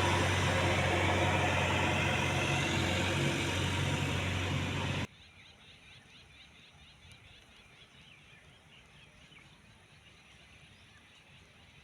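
Diesel engine of a JCB 3DX backhoe loader running steadily, cutting off abruptly about five seconds in. After that only a faint outdoor background with faint bird chirps remains.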